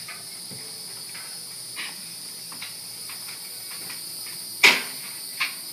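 Steady high-pitched chorus of crickets or similar insects, with a few faint clicks and one sharp knock near the end, followed by a smaller one.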